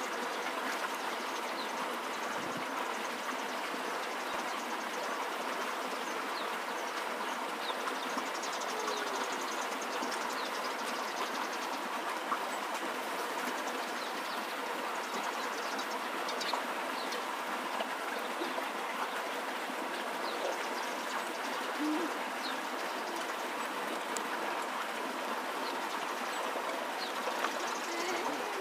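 Steady outdoor background noise with occasional short bird calls scattered through it.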